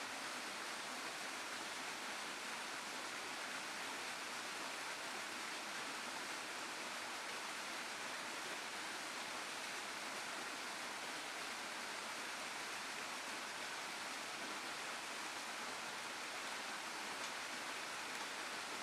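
Steady rushing of a waterfall and stream, an even hiss of falling water that holds at the same level throughout.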